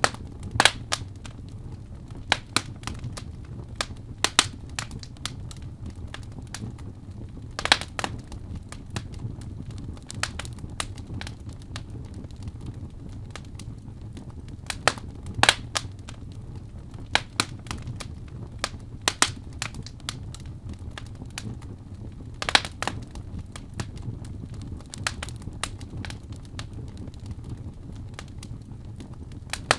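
Wood fire in a fireplace crackling, with sharp irregular pops every second or two over a low steady rumble.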